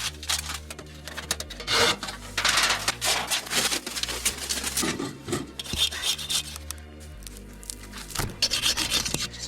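Repeated rubbing and scraping strokes, irregular in length, over background music with sustained low notes.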